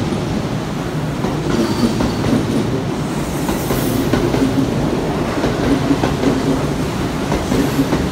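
Kintetsu electric train pulling out past the platform, its cars running by with steady wheel rumble and a repeated clatter of wheels over the rail joints.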